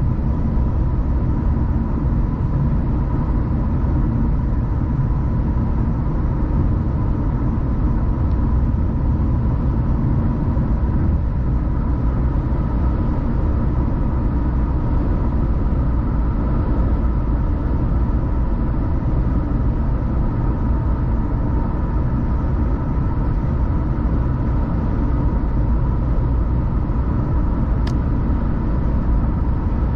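Steady road noise from inside a moving car: a low rumble of tyres and engine at cruising speed, with a faint steady hum, and one small click about two seconds before the end.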